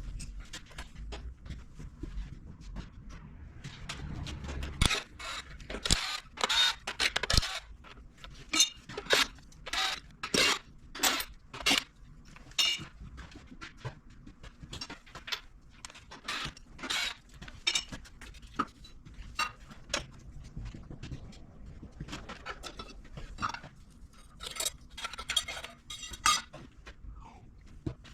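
Hand tools and metal diesel-engine parts clinking and knocking together during disassembly: an irregular run of sharp metallic clinks, some ringing briefly. They are thickest from about five to thirteen seconds in and again near the end.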